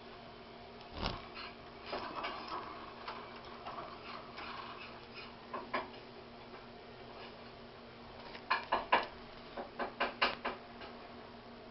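Budgies in a cage making small sharp clicks and taps, with a thump about a second in and a quick run of about eight taps near the end.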